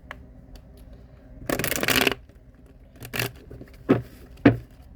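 Tarot cards and decks being handled on a table: a brief rustling swish, then three sharp taps.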